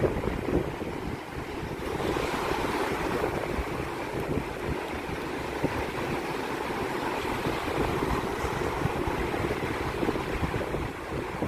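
Mediterranean surf washing steadily on the shore, with wind buffeting the microphone in low, uneven gusts.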